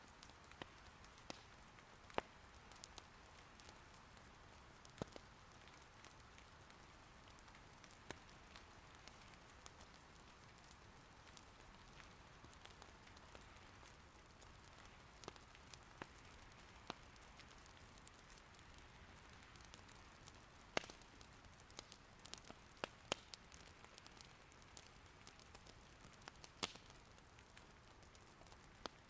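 Soft, steady rain patter with wood crackling in an irori hearth fire. Irregular sharp pops and snaps stand out over the faint hiss of the rain.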